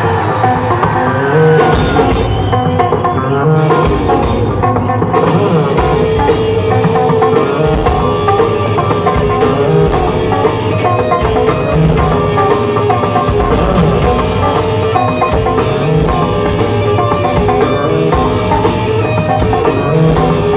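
Live rock band playing an instrumental passage on drum kit, bass and electric guitar, with a steady beat of cymbal strikes about twice a second from about six seconds in.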